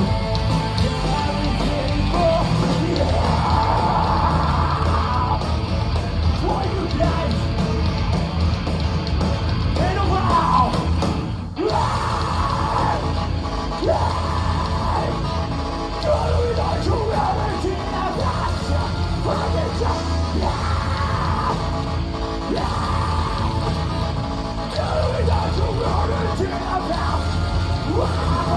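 Heavy metal band playing live, with a vocalist yelling over the music. There is a brief break about eleven seconds in.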